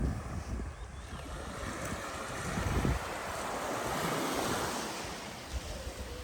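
Sea waves washing up a sandy shore, one wash swelling and fading over the middle few seconds, with wind rumbling on the microphone.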